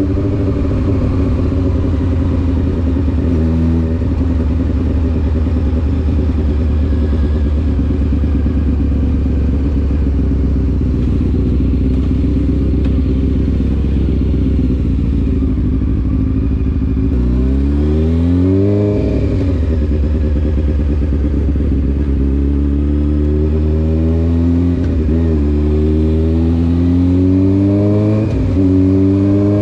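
Honda CBR600F4 inline-four motorcycle engine through an SC Project aftermarket exhaust, running steadily at low revs for the first half. About 17 seconds in the revs climb and fall away, then from about 22 seconds it accelerates through the gears, the pitch rising and dropping at each upshift, twice near the end.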